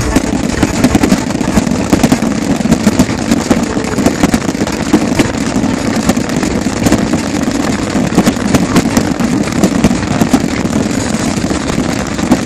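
Large fireworks display: a continuous barrage of overlapping bangs and crackles, with no let-up.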